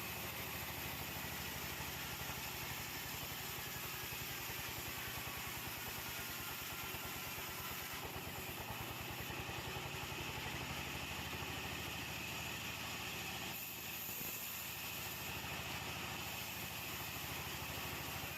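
The sawmill's engine running steadily at an even pace, with no cut under way.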